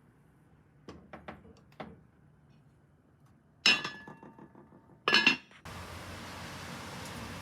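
Dishes clinking: a few light taps, then two louder clinks that ring briefly. A steady hiss then starts suddenly.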